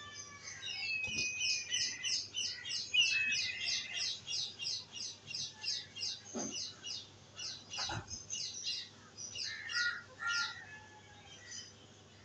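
Birds chirping: a rapid run of short, high chirps, about four a second, mixed with a few whistled notes, thinning out near the end.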